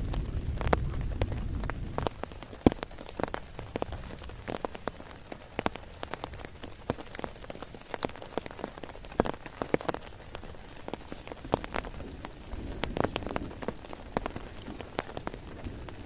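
Steady rainfall, with many individual raindrops striking close by as sharp, irregular taps. A low rumble sits under the rain for the first couple of seconds and again about two-thirds of the way through.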